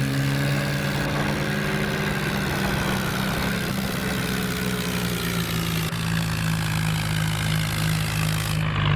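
Tractor engine running at a steady speed, its pitch holding level throughout.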